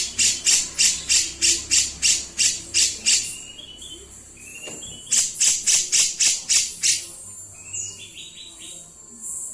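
Birdsong recording of a kapas tembak used as training song for caged birds: a fast rasping chatter of about four harsh notes a second in two bouts, with short clear whistled notes between them.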